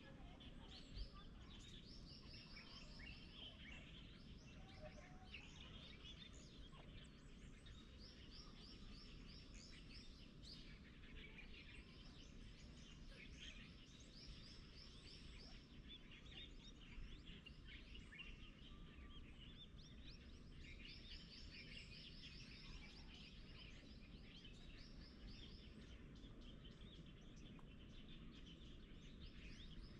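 Faint birdsong: several birds chirping, with a short, rapid, high trill that comes back every few seconds, over a steady low rumble.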